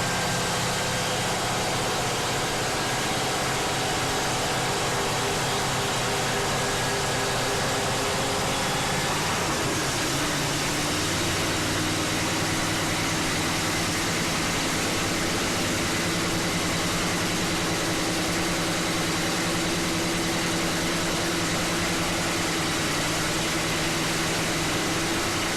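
A nitromethane-fuelled supercharged V8 drag-racing engine idles steadily during its pit warmup. Its note drops a little about nine seconds in and then holds steady again.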